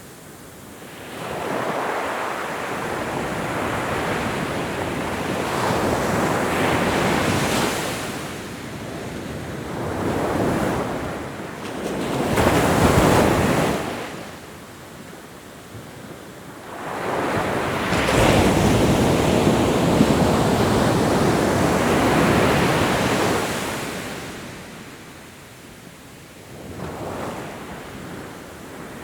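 Ocean waves breaking and washing up the shore in a series of swells, each rising to a rush of surf and then fading, with quieter lulls between them.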